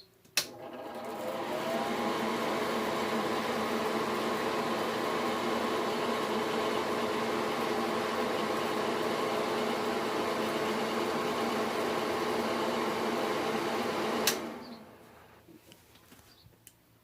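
Bathroom exhaust fan switched on with a click, its motor spinning up over about a second and a half, then running with a steady hum. About fourteen seconds in it is switched off with a click and winds down.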